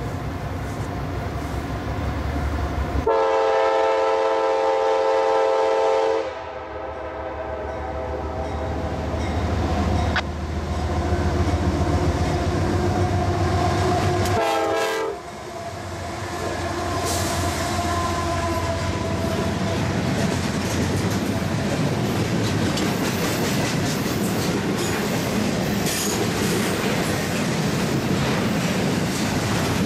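CSX diesel freight train approaching and passing, with the locomotive's air horn sounding a chord: a long loud blast about 3 seconds in, fading, then strong again until it cuts off at about 15 seconds. The locomotives rumble by, then the double-stack container cars roll past with a steady rolling clatter of wheels on rail.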